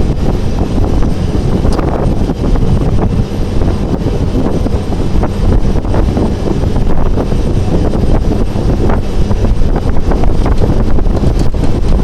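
Jet engines of an Airbus A321 airliner during its landing, a steady loud noise heard under heavy wind buffeting on the microphone.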